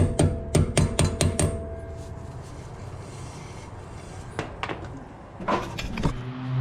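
A quick run of sharp metallic knocks, about five a second with a ringing tone under them, stops about a second and a half in. A few scattered clanks follow, and a low steady hum starts near the end.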